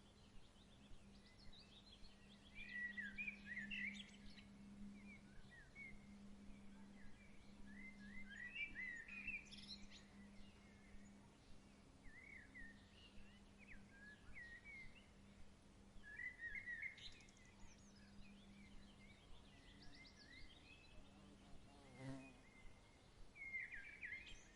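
Faint birdsong: short chirping phrases repeating every second or two over a low steady hum, with a single soft knock about 22 seconds in.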